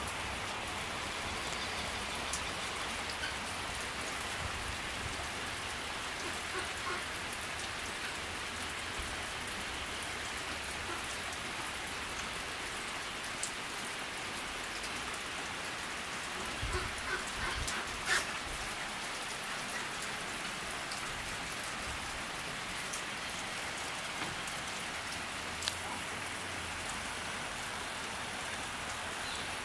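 Steady rain falling on a lake's surface and the surrounding trees, an even hiss of drops. A few brief louder knocks come a little past the middle, and one more near the end.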